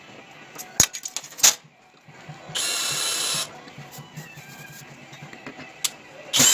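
A handheld power tool runs in one short burst of about a second midway through, after a couple of sharp knocks.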